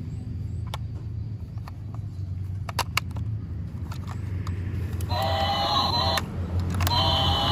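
A horn sounding twice near the end, a short blast and then a longer one, over a steady low rumble with a few scattered clicks.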